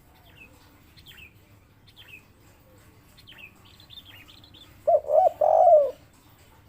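Spotted dove (tekukur) giving one loud three-part coo about five seconds in, two short notes then a longer one, its 'kuk 3' call. Faint high chirps from small birds come before it.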